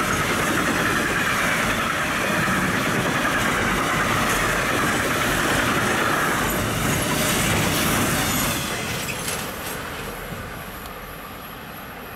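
Container freight train passing close by, its wagons' wheels rolling on the rails in a steady rush; about eight seconds in the sound fades away.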